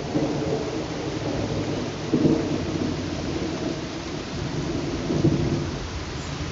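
Steady summer rain falling, heard as a continuous hiss with a low rumble beneath it that swells louder about two seconds in and again about five seconds in.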